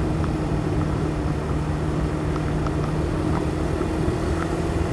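Motorcycle engine running at a steady cruising speed, heard through a helmet-mounted microphone: a steady hum under a rush of wind noise.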